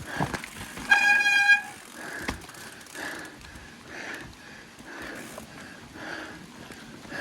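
Mountain bike riding over wet rock, with a brief steady squeal from the wet disc brakes about a second in, lasting under a second, over the ongoing rattle and tyre noise of the ride.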